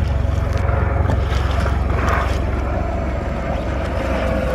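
A helicopter droning steadily behind the kayak, its engine whine a thin steady tone, under wind rumbling on the microphone.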